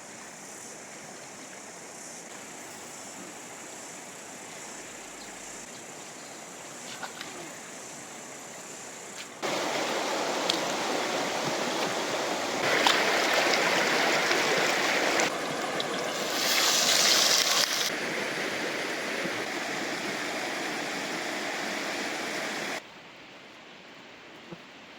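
Rushing river water, a steady noise that changes abruptly in loudness and tone several times: louder from about nine seconds in, loudest around thirteen to eighteen seconds, and quieter again near the end.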